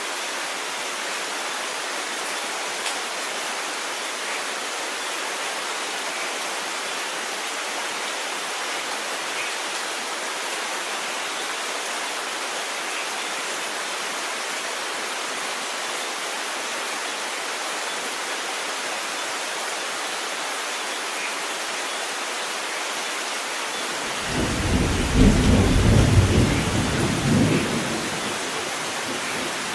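Steady heavy rain falling, and near the end a roll of thunder rumbles in, loudest for a few seconds and then dying away.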